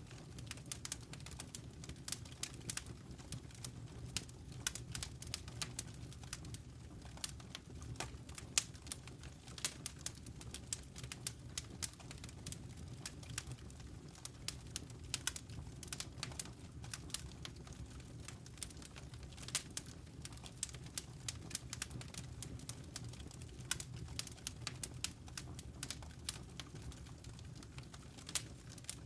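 Wood fire crackling in a fireplace: irregular sharp pops and ticks, several a second, over a low steady rumble of the burning fire.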